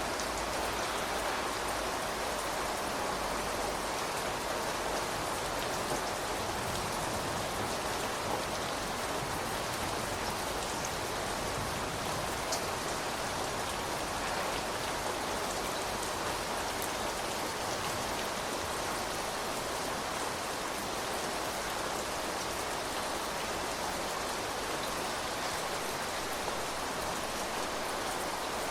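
Rain falling steadily, an even hiss with a few faint single drop ticks.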